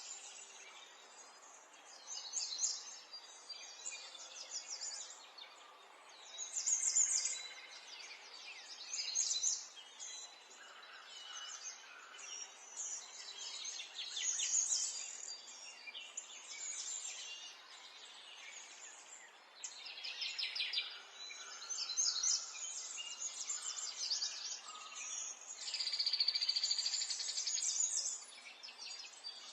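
Small songbirds chirping and singing in short bursts of quick high notes and trills, one phrase after another, over a faint steady background hiss.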